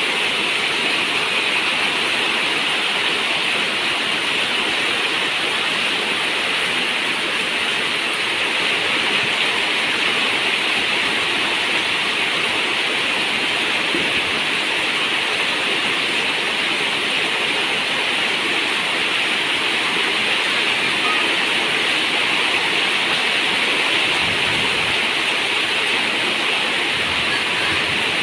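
Steady heavy rain on a zinc roof, an even, unbroken hiss.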